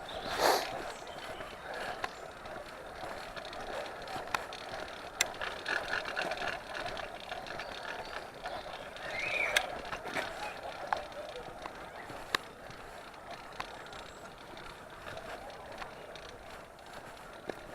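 Motorised bicycle being ridden: a steady rough running noise with scattered clicks and rattles, and a brief louder burst about half a second in.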